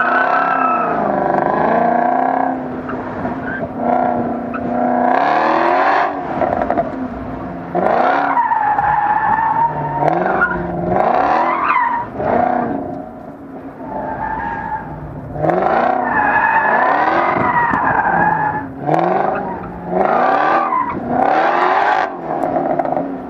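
FPV Boss 335 GT's supercharged 5.0-litre V8 accelerating hard and backing off again and again, its pitch climbing and dropping in about seven loud surges with short lulls between. Tyres squeal at times under hard cornering.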